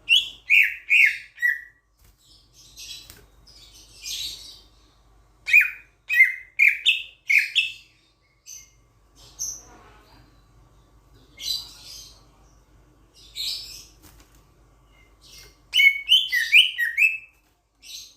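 Raja perling, a Sulawesi starling, calling loudly. Three bursts of quick whistled notes, each falling in pitch, come at the start, about six seconds in and near the end, with harsher rasping calls in between.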